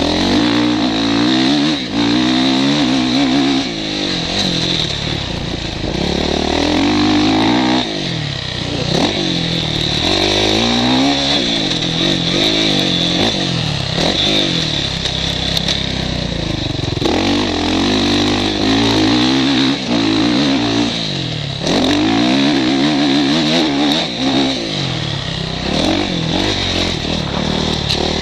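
Motocross bike engine heard from the rider's helmet, revving up and falling back again and again as the bike accelerates, shifts and slows for corners.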